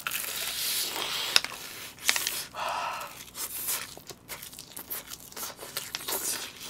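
Crispy fried chicken being bitten into and chewed close to the microphone: the batter crunches and the meat tears in irregular bursts with sharp crackles.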